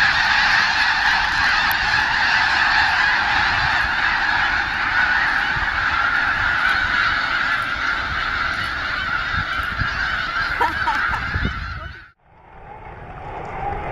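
A large flock of snow geese calling together: a dense, continuous chorus of honking. About twelve seconds in it cuts off abruptly, and a different steady background sound fades in.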